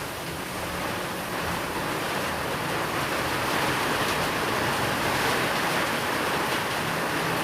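Steady rainfall, a dense even hiss that swells a little a few seconds in.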